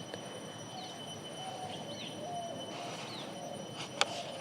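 Birds chirping in the background: short, repeated high chirps over a steady hiss and a faint electrical whine, with one sharp click about four seconds in.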